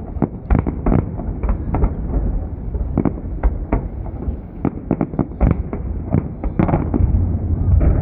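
Fireworks display bursting overhead: many sharp bangs in rapid, irregular succession over a continuous low rumble of further explosions.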